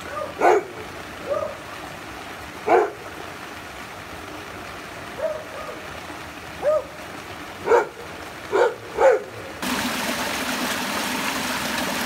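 A dog barking at intervals, about five sharp barks with a few softer calls between, over the steady sound of rain and running rainwater. Near the end the background jumps suddenly to a louder, steady rush of rain and water.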